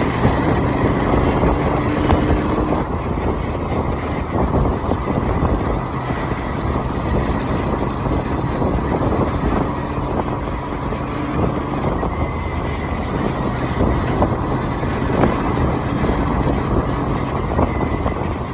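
Motorcycle running steadily at highway speed, its engine hum mixed with wind and road noise.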